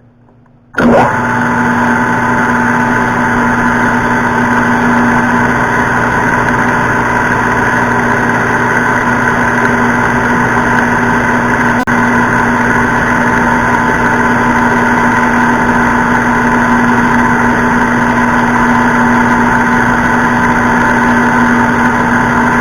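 Metal lathe switched on about a second in and running steadily with a loud motor and gear whine while a parting-off blade cuts the stock.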